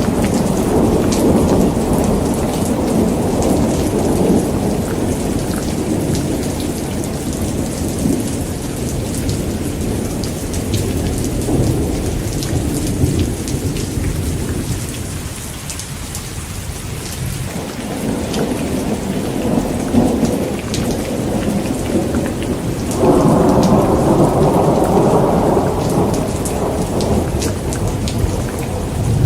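Heavy rain falling steadily with rolling thunder rumbling under it. The thunder fades to a lull about halfway through, and a loud clap of thunder breaks in suddenly near the end and rumbles on for a few seconds.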